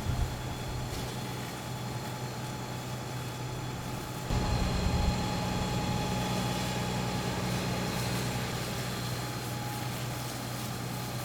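Fire engine running steadily with a constant hum, and a brief low buffeting rumble about four seconds in.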